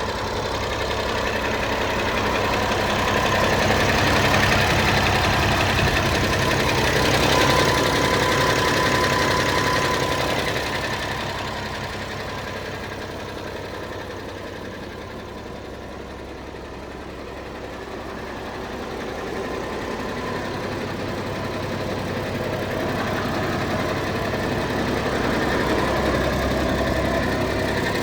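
1967 Massey Ferguson 1130's Perkins 5.8-litre six-cylinder diesel engine idling steadily. It grows louder over the first few seconds, is quietest about halfway through, then grows louder again, with no change in engine speed.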